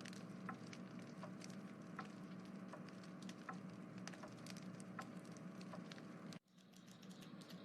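Faint room noise: a low steady hum with soft, scattered clicks about once or twice a second, cutting off to silence about six and a half seconds in.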